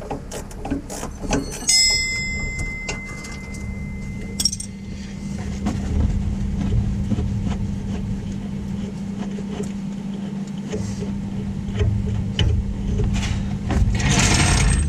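Hand tools clicking and clanking on a truck's front suspension over a steady low hum. A metallic ring sounds for about three seconds near the start, and a short loud hiss-like burst comes near the end.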